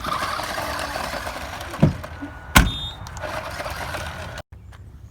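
Small electric RC car running, its 12-volt brushed motor, which the owner says is going out, making a steady whirring hiss. Two sharp knocks come about two and two and a half seconds in, and the running sound stops abruptly a little after four seconds.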